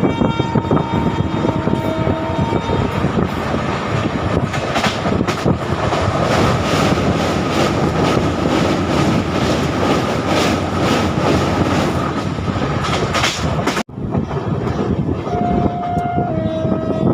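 Passenger train running at speed, heard from on board: a steady rumble of the coaches with wheels clacking over rail joints about twice a second. The sound drops out abruptly for a moment about three-quarters of the way through.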